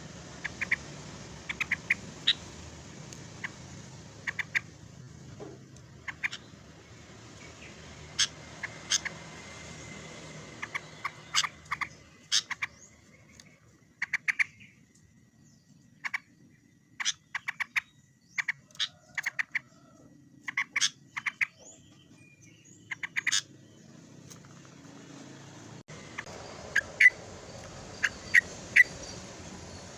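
Yellow-vented bulbul (trucuk) calling in short, bright chattering phrases, repeated in clusters with pauses between them: the call used to challenge a rival and lure it in.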